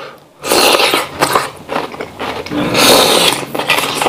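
Close-up eating sounds of a slice of raw jicama (bengkuang) dipped in thick sauce: a crunchy bite about half a second in, then wet, crunchy chewing.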